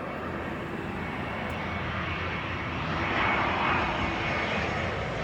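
Jet engines of an American Airlines Airbus A320-family airliner approaching to land, a steady rushing noise that grows gradually louder as it nears, with a faint high whine coming in past the middle.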